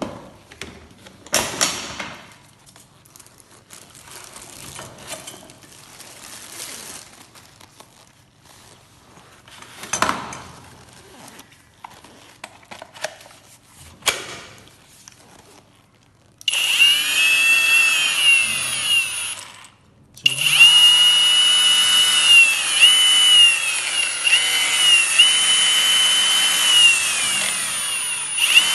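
Cordless 21V angle grinder: first some clicks and handling knocks, then the motor starts with a high whine, winds down and stops briefly, and starts again, running on with its pitch dipping now and then.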